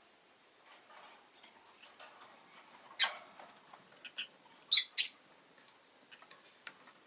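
Rosy-faced lovebird calling: two loud, sharp high chirps in quick succession a little past the middle, with softer short chirps and light clicks around them.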